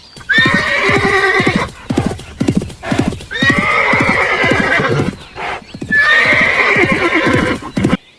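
Sheep bleating: three long, quavering bleats, evenly spaced a little under three seconds apart.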